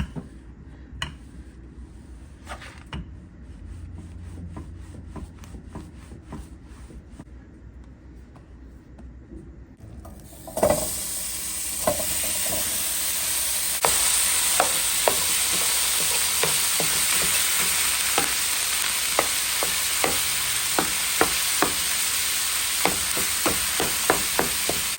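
Ground beef sizzling in a hot pan. The sizzle starts suddenly about ten seconds in, after a quiet stretch of faint taps, and goes on steadily with repeated clicks of it being stirred.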